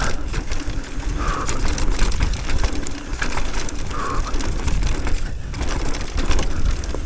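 Mountain bike rattling and clattering down a rough rock and dirt descent, tyres rolling over the rock slab, with many short clicks and knocks from the bike. Wind rumbles on the helmet-mounted camera microphone.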